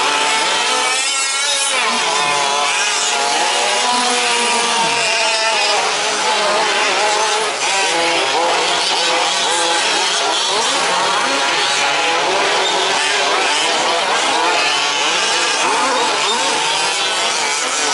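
Several 1/5-scale 4WD RC trucks' small two-stroke petrol engines racing together, their overlapping engine notes rising and falling as each throttles up and backs off.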